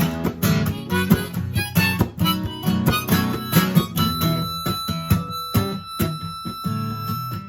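Acoustic guitar strumming with a harmonica playing over it; about halfway through, the harmonica holds one long high note.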